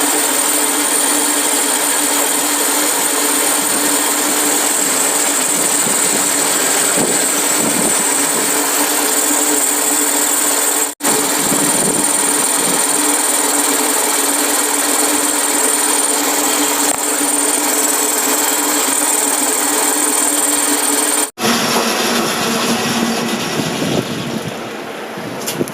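A power tool running steadily at constant speed, in a long unbroken stretch interrupted by two abrupt cuts. After the second cut, about two-thirds of the way in, a different, quieter mechanical sound follows.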